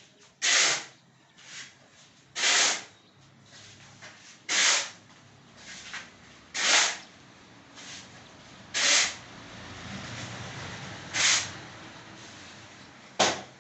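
Shovel scraping through a cement-and-sand mix by hand: seven short rasping strokes, about one every two seconds, as the mortar is turned over.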